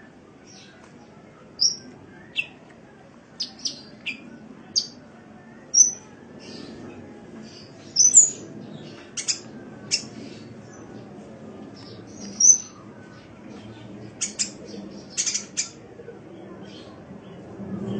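Sunbird ('kolibri') calling: short, sharp, high chirps at irregular intervals, some in quick pairs or clusters, over a faint low background hum.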